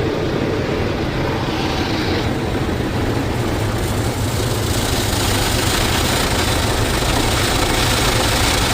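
WashTec SoftCare SE car wash side brush spinning against the car, a steady rush of scrubbing brush and spraying water over a low machine rumble, heard from inside the car. The hiss grows louder about four seconds in.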